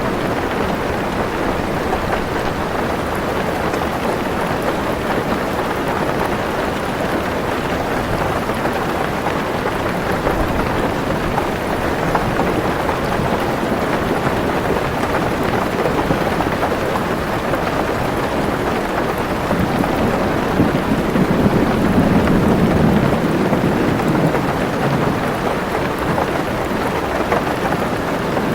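Heavy rain falling steadily on a car roof, heard from inside the car. A low roll of thunder swells about two-thirds of the way through, then fades.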